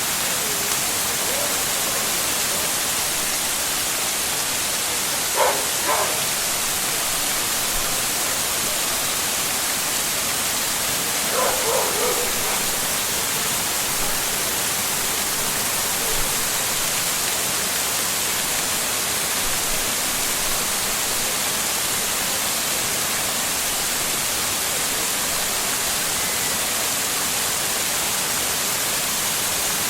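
Shiraito Falls waterfall giving a steady rush of falling water, with two brief faint sounds over it near the middle.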